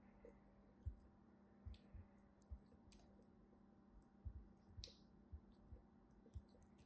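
Faint, irregular handling clicks and soft low taps, about one or two a second, over a quiet steady hum.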